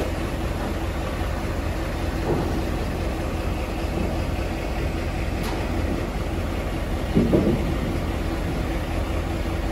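Mercedes-Benz G 500's twin-turbo V8 idling steadily as the SUV creeps out of a steel shipping container, with a brief louder noise about seven seconds in.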